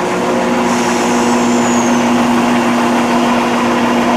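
Diesel multiple unit's engines running with a steady hum. About a second in there is a brief high squeal that falls in pitch.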